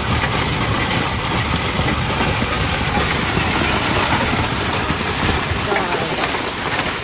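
Severe thunderstorm: a dense, steady drumming of heavy precipitation, many small impacts, over a deep constant rumble.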